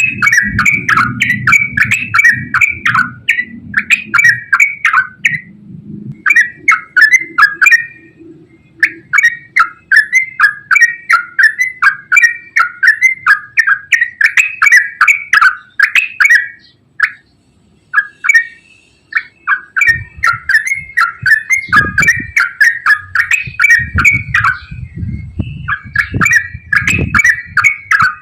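Yellow-vented bulbul singing long, fast runs of repeated chattering notes, with a few short breaks and one longer pause past the middle. A low rumble lies under the song at the start and again in the second half.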